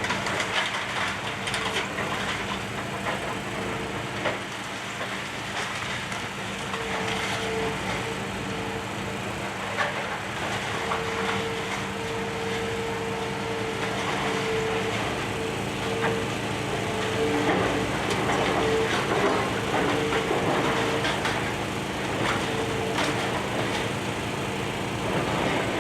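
Demolition excavator working: a steady engine hum with a hydraulic whine that comes and goes, and scattered knocks and crunches of breaking debris.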